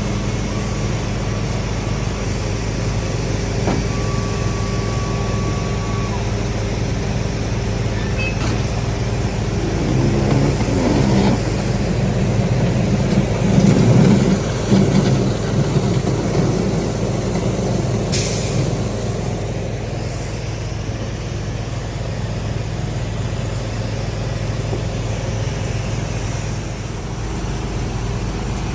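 Fire truck engine running steadily, with a short burst of hissing air about two-thirds of the way through.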